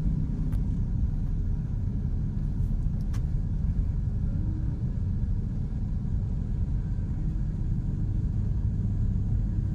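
Steady low rumble of a car driving, heard inside its closed cabin, with a couple of faint clicks.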